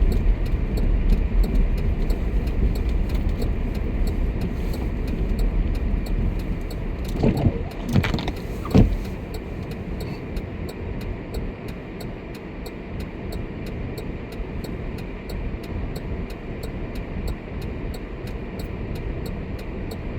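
Inside a car driving slowly on snow-covered streets: a steady low rumble of engine and tyres, with a few knocks about seven to nine seconds in and a faint, even ticking throughout.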